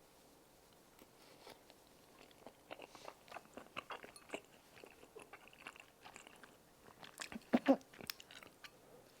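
Close-miked mouth sounds of chewing tteokbokki: a run of short, wet clicks and smacks that starts a couple of seconds in, with the loudest smacks about three quarters of the way through.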